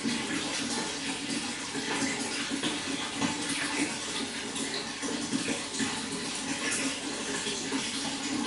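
Running water flowing steadily, with a continuous splashing rush.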